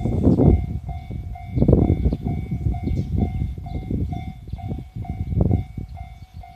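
Japanese level-crossing alarm ringing its electronic bell about twice a second, over the heavy rumble and clatter of a freight train hauled by an EF65 electric locomotive rolling over the crossing.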